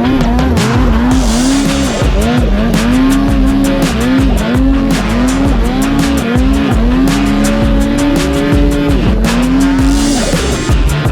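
Snowmobile engine revving up and down again and again, its pitch rising and falling in quick swells, mixed with background music with a steady beat.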